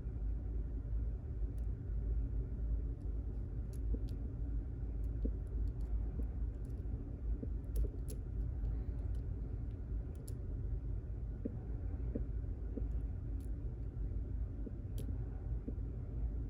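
Sparse, irregular faint clicks of a lock pick and tension wrench working the pins inside a pin-tumbler lock, over a steady low rumble.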